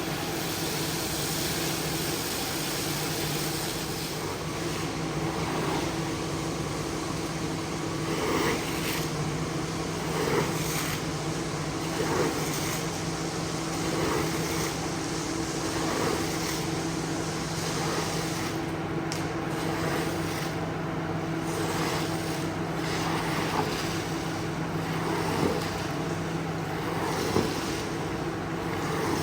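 Carpet-cleaning machine running steadily with a low motor hum and a rush of noise, swelling briefly about every couple of seconds.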